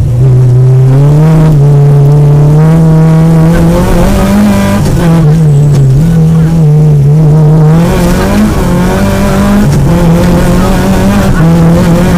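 Peugeot 205 GTI rally car's four-cylinder engine, heard loud from inside the cabin, driven hard through the gears: its pitch climbs, drops back as the driver shifts or lifts for a bend, and climbs again several times.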